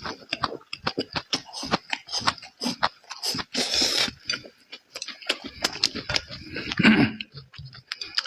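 Close-up mouth sounds of someone eating: irregular wet clicks and smacks of chewing, with a brief hissing intake about three and a half seconds in.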